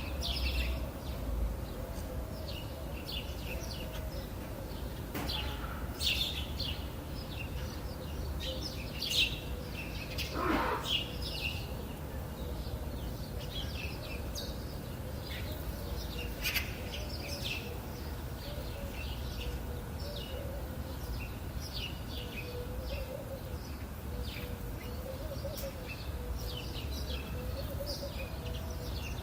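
Many small birds chirping and twittering in a steady stream of short calls, with one longer falling call about a third of the way through, over a low, steady rumble.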